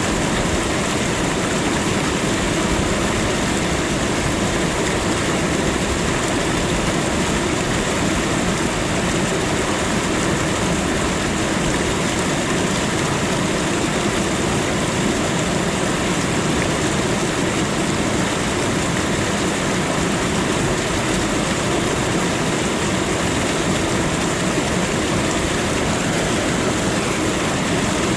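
Waterfall, water falling and crashing in a steady, unbroken rush.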